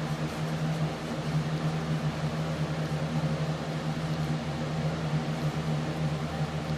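Steady low hum with a constant hiss beneath it, unchanging throughout, of the kind a running fan or similar machine gives.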